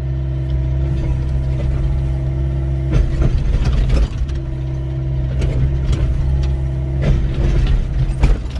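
Doosan 55W wheeled excavator's diesel engine running steadily under load, with a hydraulic whine that comes and goes as the arm works. Its bucket knocks and scrapes sharply several times against rocks in stony ground.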